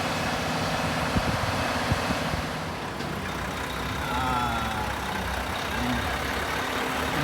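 Heavy diesel truck engine running steadily, with a couple of short knocks about a second in.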